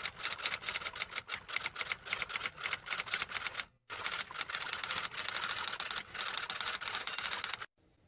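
Typewriter sound effect: a rapid, irregular run of key clacks, pausing briefly about four seconds in and then continuing until it stops near the end.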